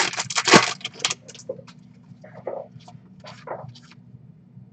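Trading cards being handled, with a burst of rustling and crackling in the first second, then quieter scattered clicks and rustles as cards are flicked and slid over one another. A steady low hum runs underneath.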